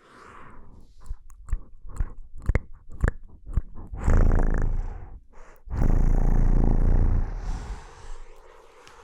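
Close-miked ASMR mouth sounds: a run of sharp wet clicks and smacks over the first few seconds, then two longer low rumbling stretches of about a second and a half each.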